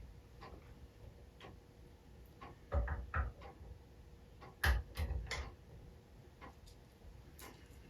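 Small metal engine parts handled and set down during assembly, with two short clusters of clicks and knocks about three and five seconds in, over a faint, regular ticking about once a second, like a clock.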